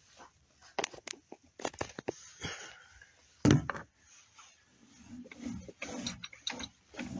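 Irregular clicks, knocks and rustling as a rope is hauled in by hand, with one heavy thump about three and a half seconds in.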